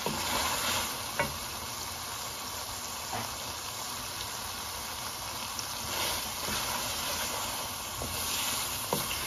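Chicken and chickpea masala sizzling in oil in a metal pot while a wooden spoon stirs it, with a few light taps of the spoon. The chickpeas are being fried briefly (bhuna) so the masala coats them.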